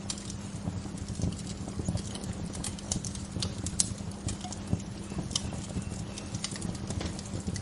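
Wood fire crackling: irregular sharp pops and snaps, several a second, over a steady low rush.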